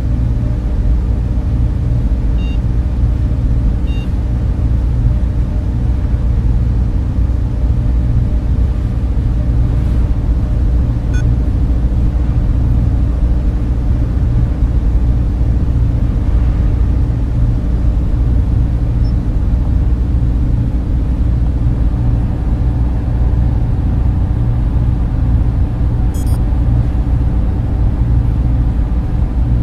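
Server room cooling fans running in a steady, unbroken drone, deep and rumbling with a constant hum, and a few faint high ticks now and then.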